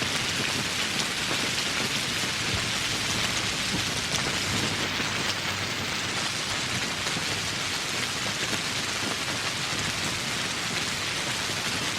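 Steady rainfall, the drops pattering densely on surfaces in an even wash of sound.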